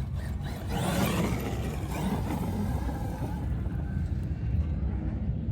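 A vehicle passing close by: a rushing noise swells about a second in and fades away over the next couple of seconds, over a steady low rumble.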